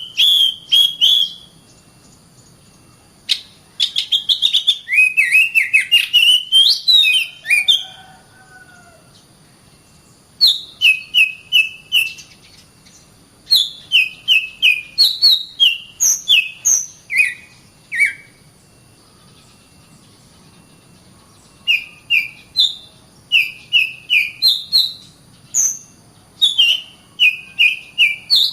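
Oriental magpie-robin (kacer) singing in phrases of rapid, short whistled notes mixed with sharp clicks, each phrase lasting a few seconds, with pauses of two to three seconds between them.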